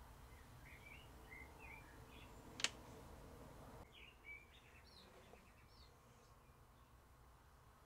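Near silence with faint bird chirps in the background and one sharp click about two and a half seconds in.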